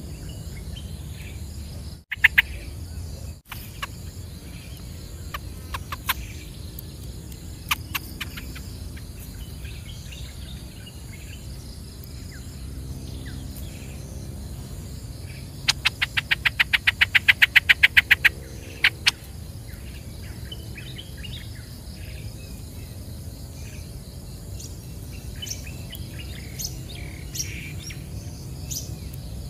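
Bird calls: scattered short chirps and, midway, a rapid run of about twenty sharp notes over two and a half seconds, the loudest sound, over a steady low rumble.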